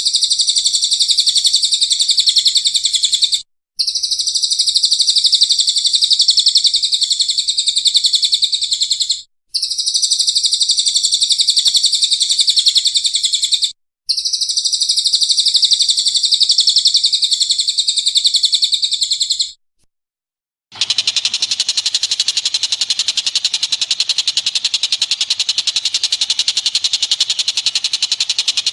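Recorded bird song: a rapid, high-pitched trill repeated in four long phrases of several seconds each, with brief breaks between them. After a short pause, about two-thirds of the way in, a different and harsher rapid buzzing chatter takes over.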